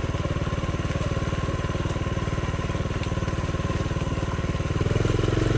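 Honda CT70's small air-cooled single-cylinder four-stroke engine running at a low, even speed while being ridden, growing louder about five seconds in as the throttle opens.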